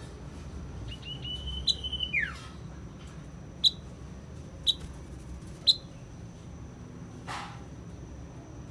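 Yellow mantenan songbird singing: a held whistle that slides down in pitch at its end, then three short, sharp chirps about a second apart.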